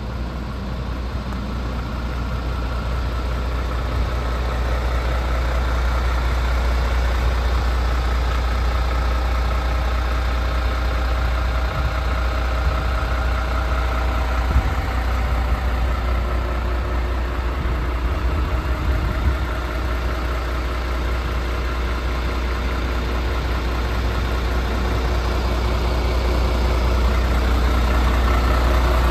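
Diesel engine of a MAN TGX 26.470 tractor unit, the 470 bhp Euro 6, idling steadily with a deep hum. It grows slightly louder toward the end.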